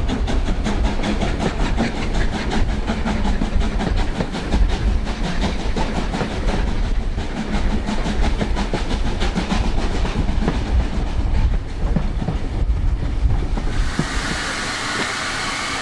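LMS Black Five steam locomotive, a two-cylinder 4-6-0, working a train, heard from on board: a fast, regular beat over a low rumble of wheels on rail. About fourteen seconds in, the beats fade and a steady hiss takes over.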